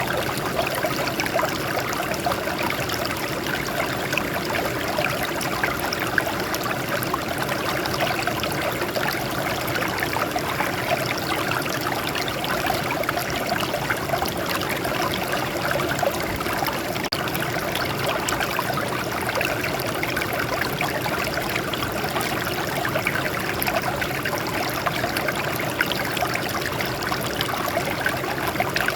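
Small stream of water flowing and trickling over rocks, a steady babbling splash that does not change.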